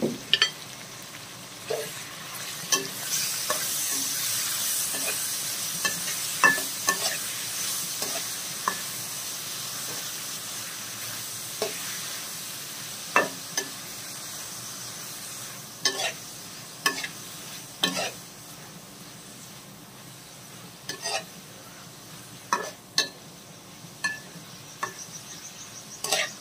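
Boneless chicken pieces sizzling in hot oil in a metal karahi, stirred with a steel spatula that clinks and scrapes against the pan at irregular moments. The sizzle swells a few seconds in, then slowly dies down as the chicken cooks.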